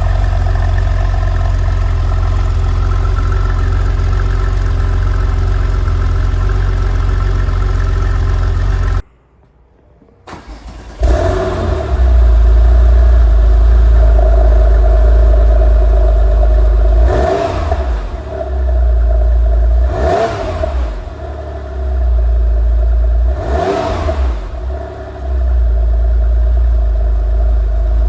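Porsche 993's air-cooled flat-six idling steadily, then cutting off suddenly about nine seconds in. After a second or so of quiet it is started again, catches, and settles back to running with three short blips of the throttle.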